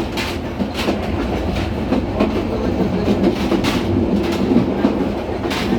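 Train running along the track: a steady rumble with the wheels clacking over rail joints at irregular intervals.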